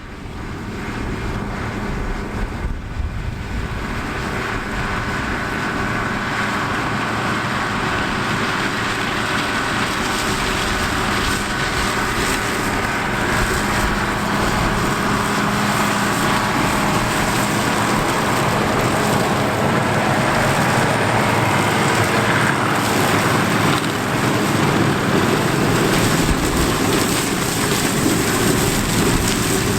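An International 1086 tractor's turbocharged six-cylinder diesel running under load, driving a flail shredder through corn stalks. The steady engine and shredder noise grows louder over the first several seconds, then holds.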